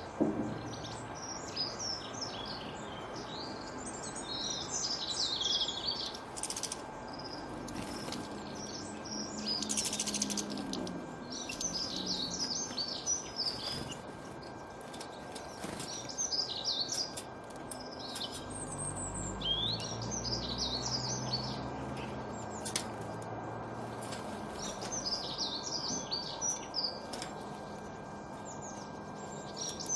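Songbirds chirping and singing in short bursts of quick, high notes every few seconds, over a faint steady hum. A low rumble swells and fades about two-thirds of the way through.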